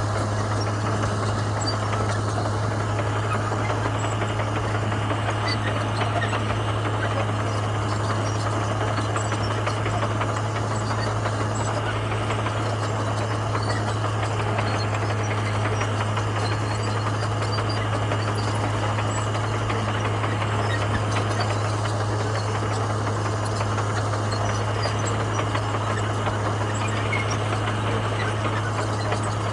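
Komatsu bulldozer's diesel engine running steadily, with a constant low drone.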